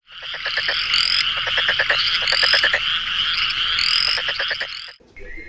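A dense chorus of frogs calling, with rapid pulsed croaks and a rising call that repeats about every second and a half. It cuts off abruptly near the end.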